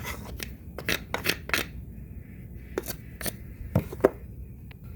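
A spoon scraping and knocking packed snow off a window, about ten short, sharp scrapes, the loudest near the end.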